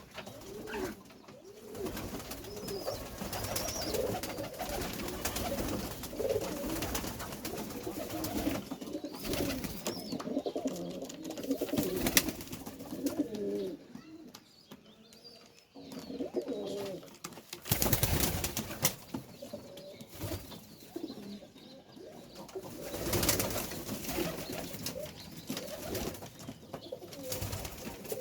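Domestic white pigeons cooing again and again in low, wavering calls. A few brief louder noises cut in around the middle and in the last third.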